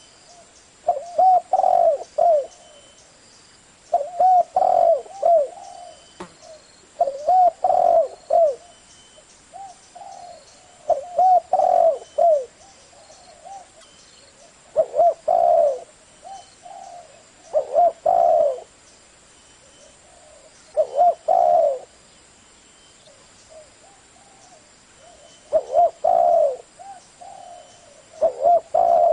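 Spotted dove cooing, repeating its multi-note coo phrase about every three seconds, with faint high chirps in the background.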